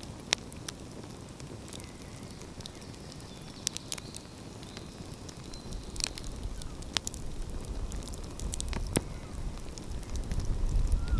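Wood fire crackling, with scattered sharp pops over a soft hiss. A low rumble builds in the second half and grows louder near the end.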